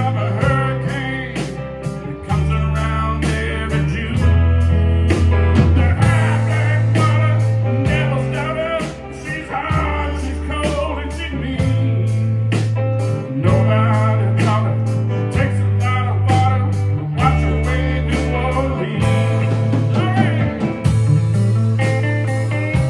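Live blues-rock band playing an instrumental break: a lead guitar playing bent, wavering notes over a bass line and a steady drum beat.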